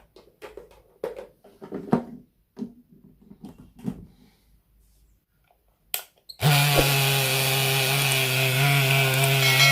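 Light clicks and knocks of handling for about six seconds, then a Moulinex blender's electric motor starts suddenly and runs at full speed with a steady hum and a harsh high hiss. The blender has a fault that makes it noisy and makes it spark.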